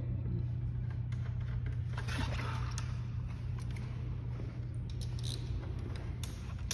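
Light scraping, rustling and a few clicks of a motorcycle clutch cable being worked loose from its lever, over a steady low hum.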